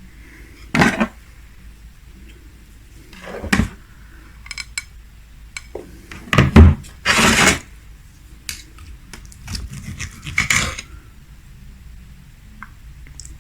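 Cutlery scraping and clinking against a plate in several separate strokes, the loudest about halfway through.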